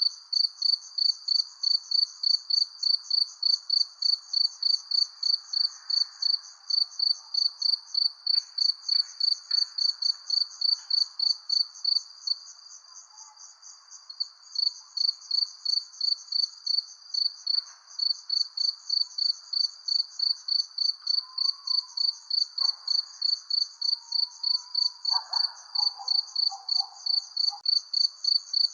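Crickets chirping in a steady rhythm of about three chirps a second, which briefly softens to a faint trill about twelve seconds in, over a faint night background.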